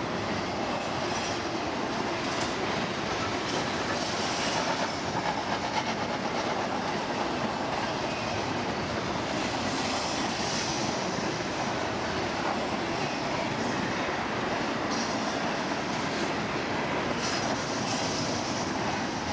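Cars of a double-stack intermodal container train rolling past, their steel wheels running steadily on the rails.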